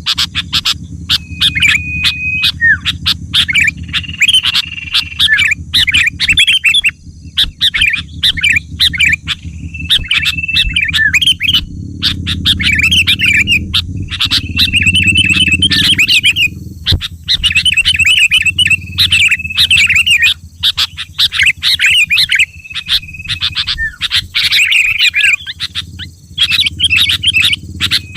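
Sooty-headed bulbul calls: rapid chattering chirps mixed with short, level whistled notes, coming in phrases with brief gaps. A steady low rumble runs underneath.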